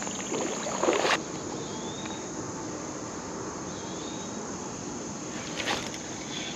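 Steady high-pitched insect chorus, crickets, over an even background hiss, with two brief rustling bursts, about a second in and near the end.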